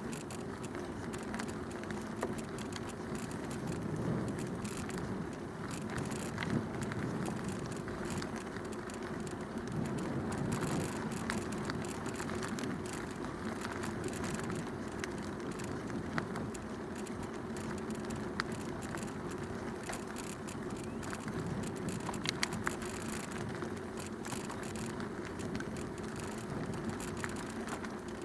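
A bicycle rolling along a canal towpath: steady tyre noise with a few sharp clicks and rattles.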